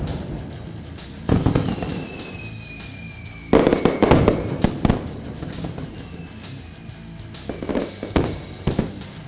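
Fireworks going off in several sudden bursts with crackling tails, the biggest cluster about three and a half seconds in, after a long faint whistle. Music plays underneath.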